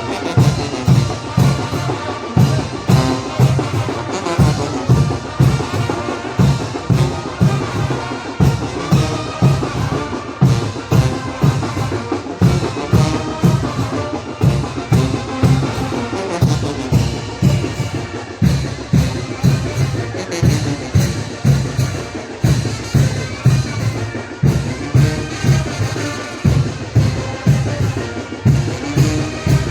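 Mexican wind band playing chinelo dance music: brass carrying the tune over a steady, evenly spaced bass drum beat and sharp percussion strokes.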